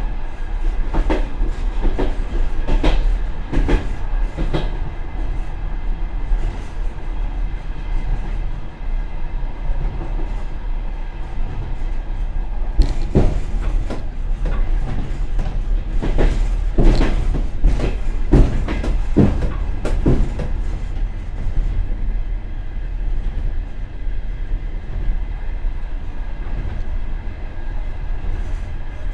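Express passenger train running, heard from the rear vestibule of its last car: a steady rumble of wheels on rail with sharp clacks as the wheels cross the track, bunched in the first few seconds and again in the middle stretch.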